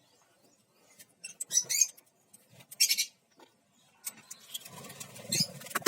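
Small caged parrots chirping in short, high squeaky bursts, a couple in the first three seconds, then a busier run of squeaks mixed with scratchy rustling in the last two seconds.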